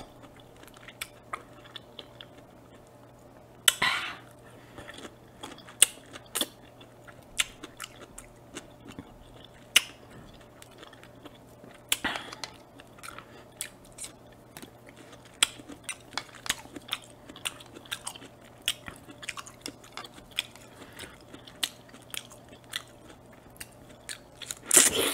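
Close-miked person chewing juicy chunks of fresh fruit: a steady run of wet smacks and clicks, with a few louder bites or slurps. A faint steady hum lies underneath.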